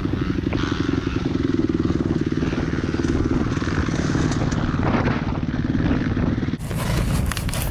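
A vehicle engine running at a steady speed, its firing pulses fast and even. About six and a half seconds in it cuts off abruptly to wind buffeting the microphone.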